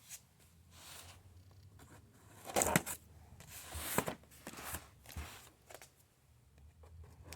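A cardboard box being opened by hand: scattered rustling, scraping and crinkling of cardboard and packaging, loudest about two and a half seconds in.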